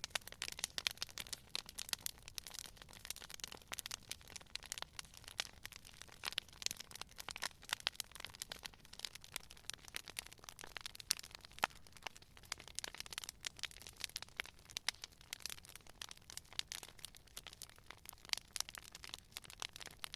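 Campfire crackling: a dense, irregular run of sharp pops and snaps from burning wood, over a soft low rumble of the flames.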